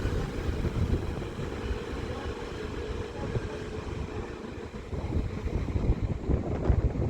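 Northern Class 195 diesel multiple unit running slowly into the platform with a low rumble, and a faint steady whine that fades about halfway through.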